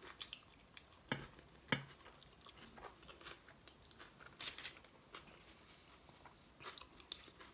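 Faint close-up eating sounds of a chicken burrito: biting into the soft tortilla and chewing, heard as scattered small wet clicks with a few sharper ones.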